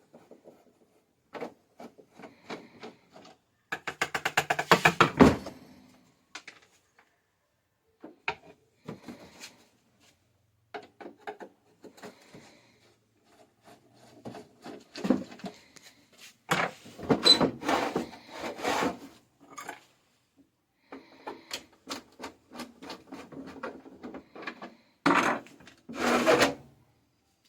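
Irregular clicks, knocks and scraping of a CRT television being handled and worked on, with a quick rattle of many clicks about four seconds in and louder bouts of scraping later on.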